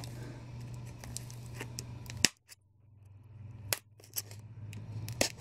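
Scattered sharp clicks and snips from packaging being handled while a statue is unboxed, over a low steady hum, with one louder snap a little past two seconds in.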